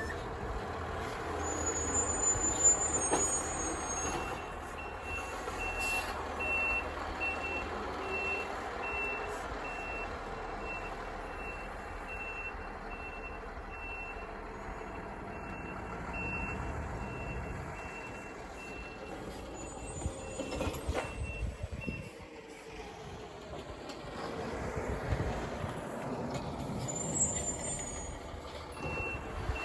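Heavy snow-removal equipment working: diesel engines running under a reversing alarm that beeps steadily, stops a little past the middle and starts again near the end.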